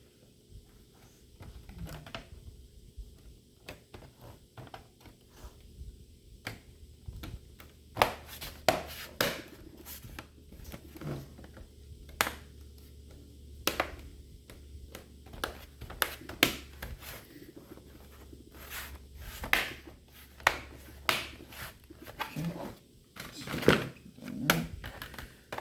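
Irregular clicks and knocks of plastic laptop parts being handled and fitted back together as an HP 255 G4 laptop is reassembled, with a few louder knocks among them.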